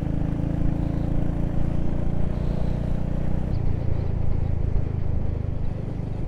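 Motorcycle engine running at a steady road speed, with wind and road noise. The engine note changes about three and a half seconds in.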